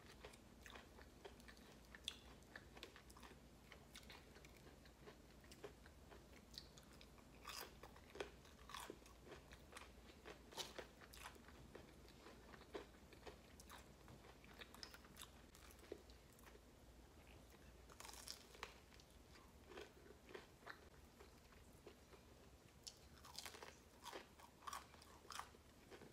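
A person chewing crunchy fried food close to the microphone: faint, irregular crunches and mouth clicks, with one brief hiss about two-thirds of the way through.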